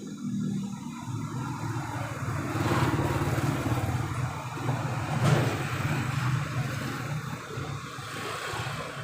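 A motor vehicle's engine running steadily, a little louder for a few seconds in the middle.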